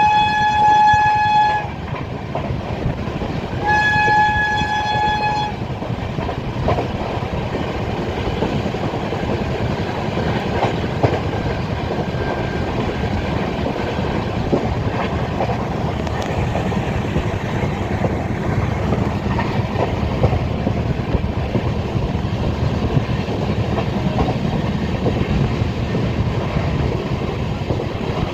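Train horn sounding twice, two steady single-note blasts of under two seconds each, then the steady rumble and clatter of the train running over the rails.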